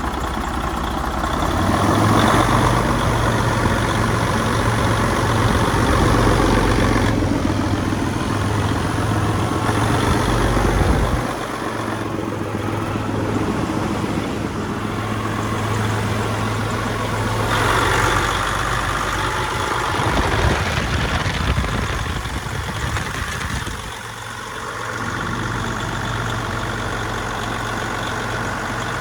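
Detroit DD15 14.8-litre diesel engine running on a test run to check oil pressure and blow-by. It gets louder from about two to eleven seconds, drops back, and rises again briefly around eighteen to twenty seconds.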